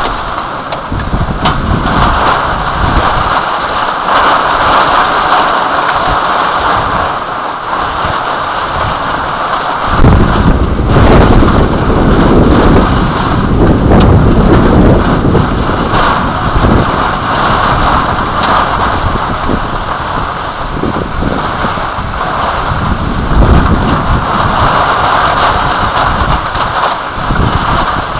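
Heavy rain falling steadily, with a roll of thunder that breaks in about ten seconds in and rumbles on for several seconds before easing.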